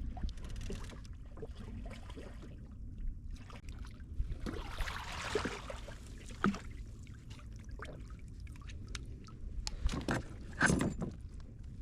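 Water sloshing around a kayak, with scattered knocks and scrapes on the hull and a longer rush of water noise about five seconds in, as a ray is brought aboard.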